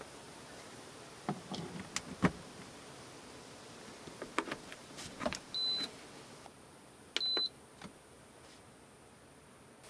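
Light clicks and knocks of things being handled, then two short high electronic beeps a little under two seconds apart.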